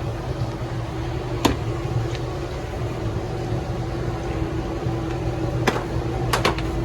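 Steady mechanical hum with a constant tone, broken by a few sharp clicks or knocks.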